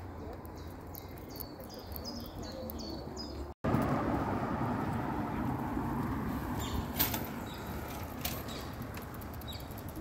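A small bird chirping in short, repeated high notes. After an abrupt cut comes a louder, steady rushing noise with two sharp clicks.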